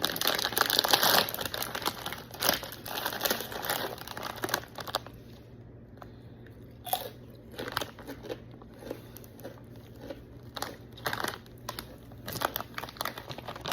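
A potato chip bag crinkling as it is opened and handled for about the first five seconds. Then scattered crisp crunches of potato chips being bitten and chewed.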